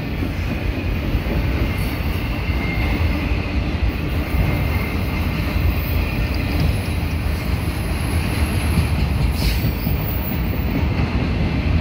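Multi-level autorack freight cars of a mixed freight train rolling past close by: a steady, loud, low rumble of steel wheels on the rails.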